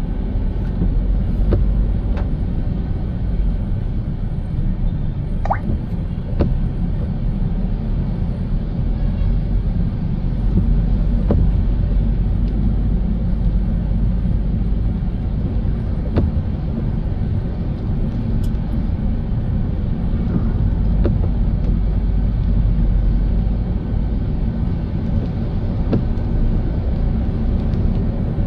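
Steady low rumble of a car being driven, road and engine noise, with a few scattered faint ticks.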